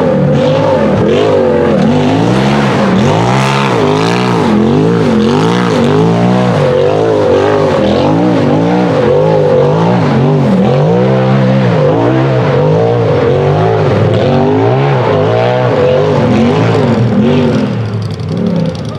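Turbocharged Polaris RZR buggy engine revving hard, its pitch climbing and falling about once a second as the throttle is worked on and off. It drops in loudness briefly near the end.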